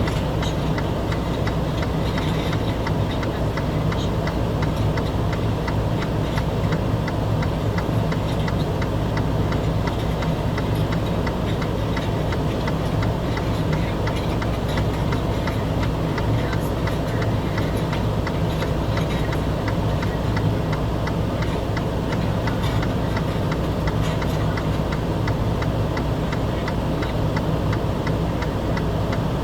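A vehicle engine idling with a steady low hum, with many rapid, irregular ticks over it.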